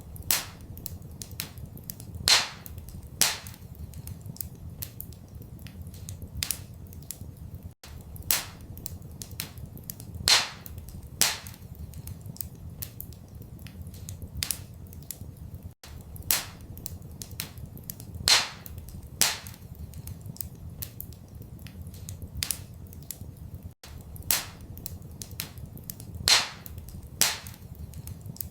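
Wood fire crackling in a fireplace: a run of sharp pops and snaps, with a louder pop every few seconds, over a low steady rumble. The same eight-second stretch loops, with a tiny gap at each join.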